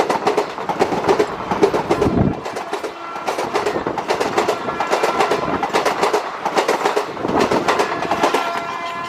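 Indian Railways train passing close by, its wheels clattering over the rail joints in quick, irregular clacks.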